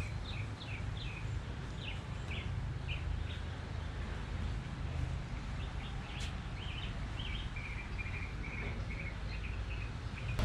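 A bird chirping over and over in short calls, which come thicker toward the end, over a low, steady outdoor rumble.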